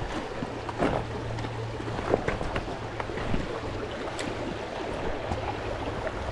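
Steady rush of a flowing river, with a few scattered clicks and knocks.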